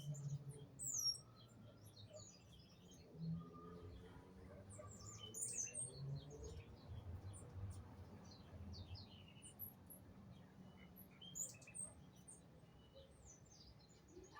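Small birds chirping: many short, high chirps and quick pitch sweeps from several birds, faint, over a low steady hum.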